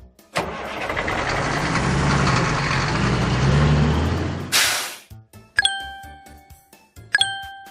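A loud noisy mechanical rumble with a low engine-like drone runs for about four seconds, then cuts to a short hiss. After it, background music with a chime note about every second and a half.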